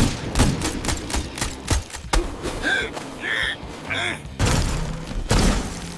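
Cartoon action sound effects: a rapid run of thuds and bangs, with three short pitched sound effects in the middle, over background music.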